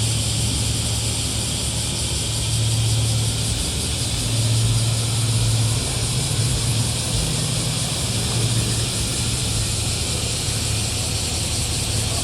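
A modified car's engine and exhaust running at low, steady revs, a low drone that swells and eases every second or two over a steady hiss.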